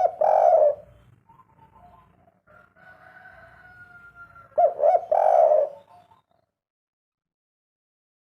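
Spotted dove cooing: one phrase right at the start and another about halfway through, each a few quick short notes running into a longer coo. This is the dove's three-note "kuk 3" call.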